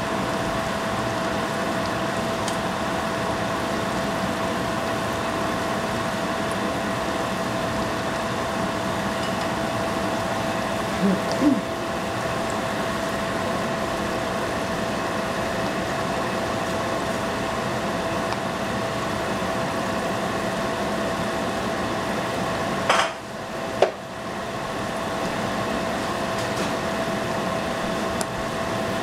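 Spring rolls frying in hot oil: a steady sizzle with a steady hum under it. A utensil knocks against the pan twice, about 11 seconds in and again near 23 seconds, and the sizzle dips briefly after the second knock and builds back.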